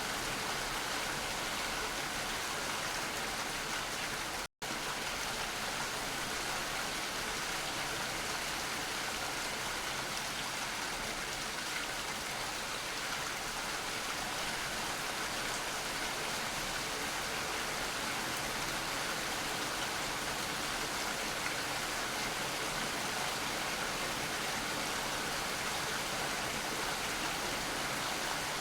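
Steady rain falling, an even hiss of many drops. It cuts out completely for a split second about four and a half seconds in.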